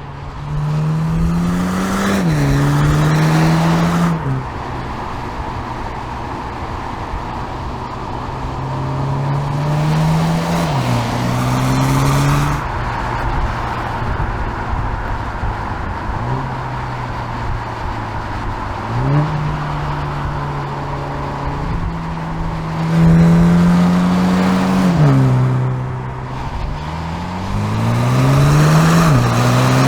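2020 MINI John Cooper Works Clubman's turbocharged four-cylinder engine and exhaust pulling hard through the gears. The engine note climbs and then drops sharply at each upshift, several times over, with steadier cruising stretches in between.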